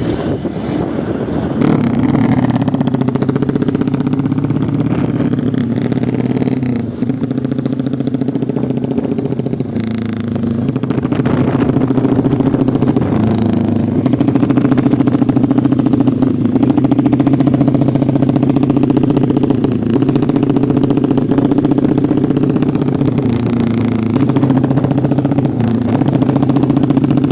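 Honda Wave 125i motorcycle's single-cylinder engine, built up to 200cc, running steadily. It steps up in speed about two seconds in, then holds with a few brief dips and recoveries in revs.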